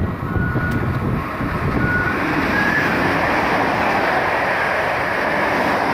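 Electric multiple-unit passenger train running past close by, a swelling, steady rush of wheels on rail, with a few short high-pitched squeals in the first three seconds.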